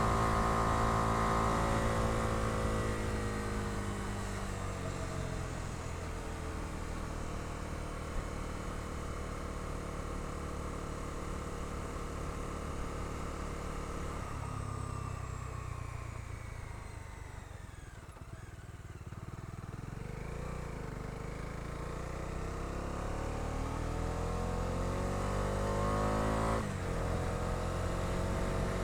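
Bajaj Dominar 250's single-cylinder engine heard from the pillion while riding. It eases off from high revs and cruises, slows to a low point midway, then accelerates again with rising revs. A brief break in the note comes near the end before it climbs on.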